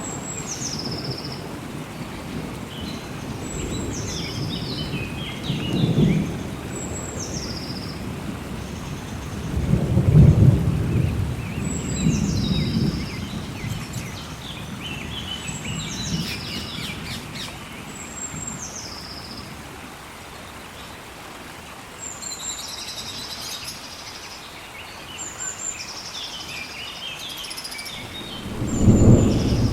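Steady rain with rolling thunder: several low rumbles, the loudest about ten seconds in and again near the end. A bird repeats a high call that steps down in pitch every few seconds throughout.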